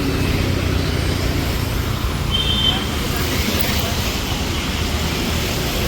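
Busy city street traffic: a steady rumble of passing vehicles with background voices, and a brief high beep about two and a half seconds in.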